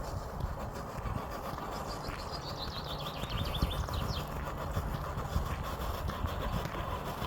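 A songbird's quick descending trill of rapid high notes, about two seconds long, over a steady low rumble with a faint hum.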